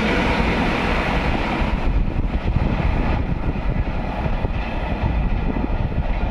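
Train running past at speed: a loud, steady rumble of wheels on rails, its higher hiss dying away after about two seconds.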